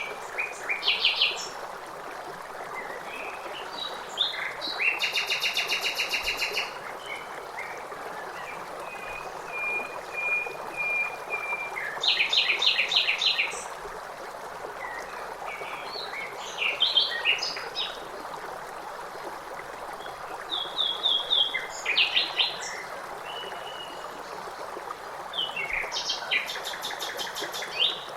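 Songbirds singing in short separate phrases, several of them fast trills, over a steady rush of running water from a stream.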